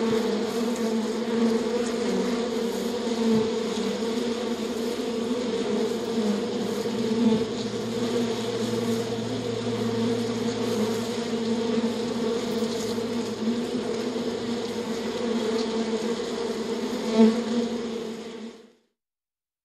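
Honeybees buzzing steadily at a wooden hive entrance, a continuous hum of many bees flying in and out, with a brief louder swell near the end. The buzz cuts off suddenly about a second before the end.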